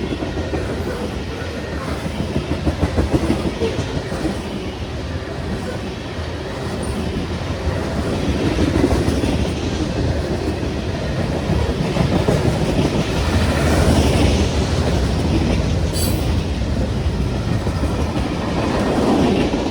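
Manifest freight train rolling past at about 41 mph: a steady rumble of steel wheels on rail, with a rhythmic clatter of the cars over the track about two to three seconds in.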